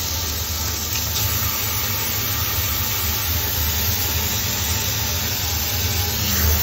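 Water running steadily through a handheld ionic shower head: an even hiss of spray over a low rumble.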